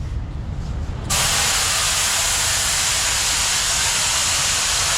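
A loud, steady hiss starts suddenly about a second in and holds without change, over a low workshop rumble.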